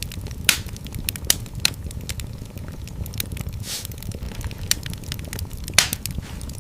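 Wood fire in a fireplace crackling: frequent small snaps and several louder pops over a steady low rumble, with a brief hiss a little past the middle.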